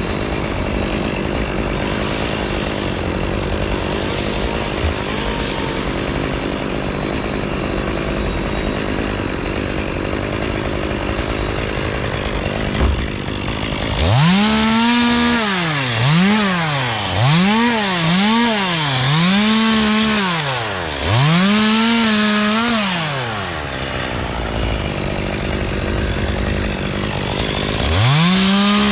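Two-stroke chainsaw running steadily, then from about halfway through revved up and down in a string of five short bursts while cutting palm fronds, with one more burst near the end.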